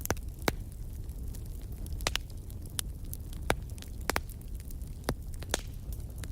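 Fire in a fireplace crackling: irregular sharp pops, about a dozen, over a low steady rumble.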